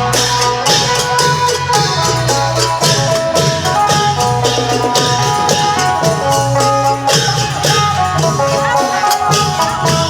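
Isan klong yao long-drum band playing procession music: a phin (northeastern Thai plucked lute) carries a melody over a steady, driving beat of long drums and small cymbals.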